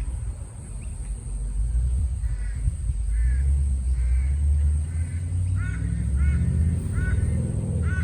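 SS V8 engine running steadily with a low, even exhaust rumble through a new 3-inch X-Force exhaust with headers. A crow caws repeatedly over it from about two seconds in, the calls growing louder toward the end.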